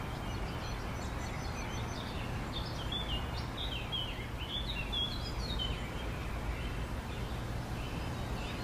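Birds chirping: a run of short, high chirps in the middle, over a steady low hum of outdoor background noise.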